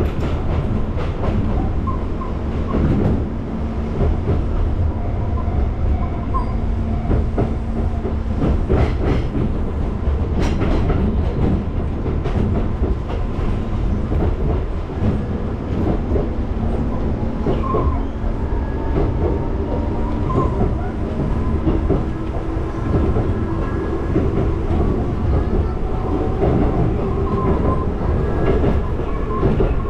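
Konan Railway Konan Line electric train running along the line, heard from inside the front car: a steady rumble of wheels on rail with occasional clacks over rail joints.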